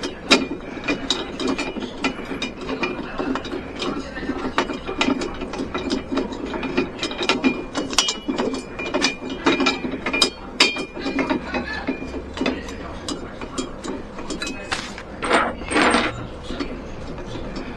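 Rapid, irregular ratcheting clicks from a hand tool being worked, with a short, louder scrape about fifteen seconds in.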